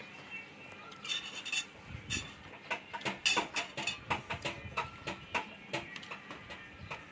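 A person chewing food with the mouth close to the microphone: many irregular short wet clicks and smacks, busiest in the middle.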